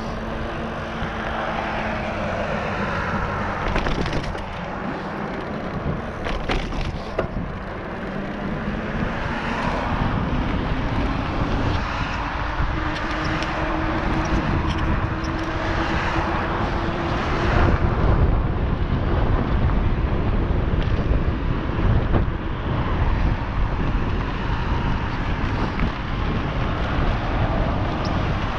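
E-bike ride noise: a steady low rumble of fat tyres on snow and slush and wind on the camera, with the hub motor's thin whine rising slowly in pitch as the bike picks up speed under throttle. A few sharp clicks and knocks come early on from bumps.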